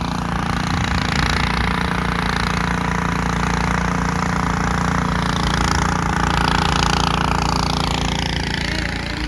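Snowblower running steadily close by: a held engine drone with a loud rushing noise over it that eases a little near the end.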